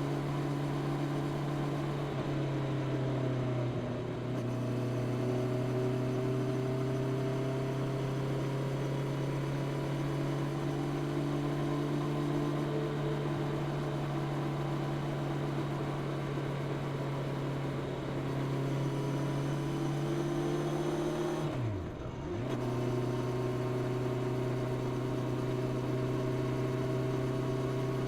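Honda CB650R's inline-four engine through its stock exhaust, pulling steadily while riding with the pitch slowly rising. The engine note drops briefly about four seconds in and again about 22 seconds in, each time climbing back afterwards.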